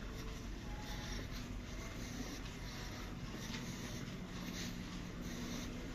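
Steady low hum of a cruise ship's interior, with faint scuffs and soft clicks scattered over it.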